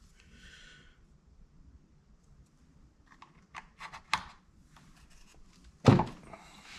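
Handling noises of hand work on a chainsaw: a brief hiss, then a run of small clicks and taps, and one loud sharp knock near the end.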